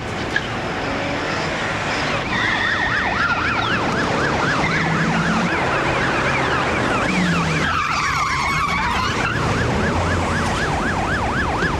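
Police car siren in rapid yelp, rising and falling about four times a second, with a second siren tone sweeping in twice, over the steady rumble of car engines.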